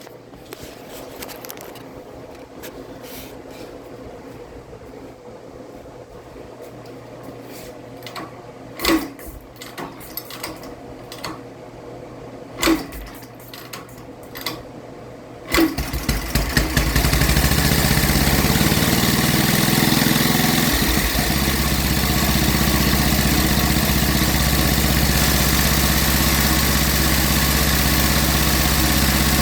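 1945 Cushman Model 54 scooter's single-cylinder engine being kick-started from cold on full choke: a few sharp knocks as it is kicked over, then it catches about halfway through and settles into a steady idle.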